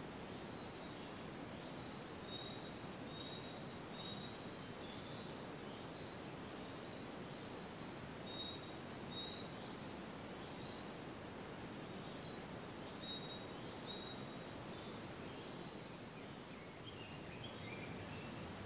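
A songbird singing a short high phrase of a few quick notes, repeated three times about five seconds apart, over a steady rustling hiss of forest ambience. Near the end a few lower notes fall in pitch.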